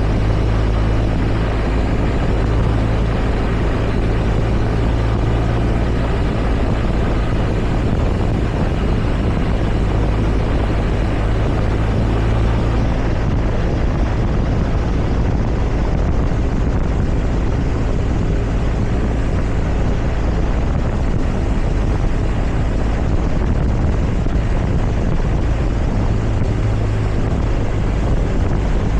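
Motorcycle engine running at a steady cruising speed, a constant drone with no change in pitch, over a heavy low rumble.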